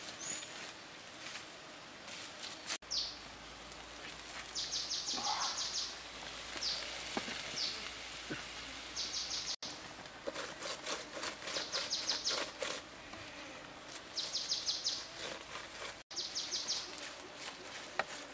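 Outdoor birdsong ambience: a bird repeats a short, rapid, high trill several times, with a few brief chirps between and scattered faint clicks.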